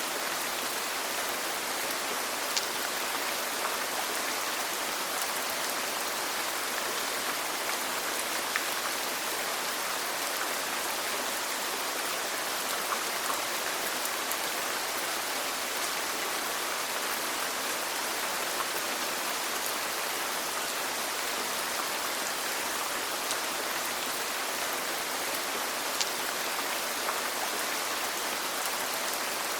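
Steady rain falling, an even hiss with scattered sharper drop ticks, a few of them louder.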